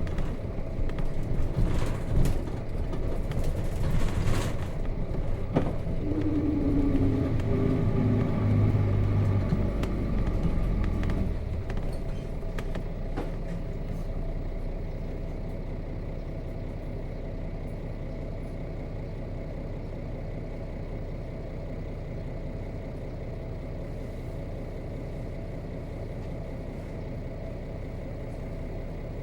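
Nissan Diesel KC-RM211GSN bus's FE6 inline-six diesel slowing down, its whine falling in pitch over several seconds, with a few knocks in the first five seconds; from about eleven seconds in it settles to a steady idle.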